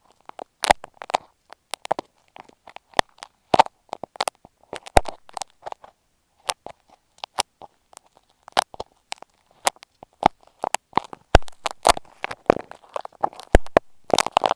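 Ear pick scraping and tapping on an earphone microphone: an irregular run of crackling scratches and sharp clicks, sparser for a couple of seconds in the middle.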